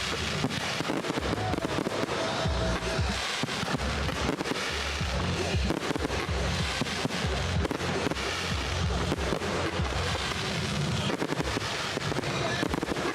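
Fireworks display going off: a dense run of bangs and crackles, with music playing underneath.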